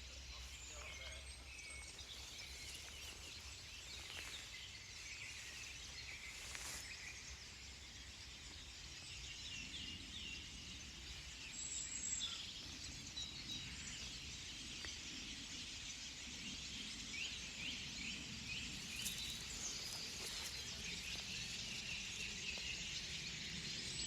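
A busy chorus of many small songbirds chirping and singing together from one tree, short calls overlapping continuously. A bird app identifies song thrushes, goldcrests, goldfinches and robins among them.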